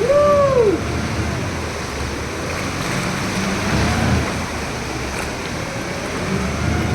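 Steady rush of waves and wind, with a brief rising-and-falling call about half a second long right at the start.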